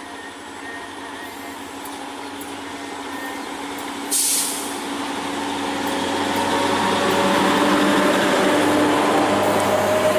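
Diesel-electric multiple unit (DEMU) train approaching and passing close by, the power car's engine drone growing steadily louder. A short, sharp hiss of air breaks out about four seconds in.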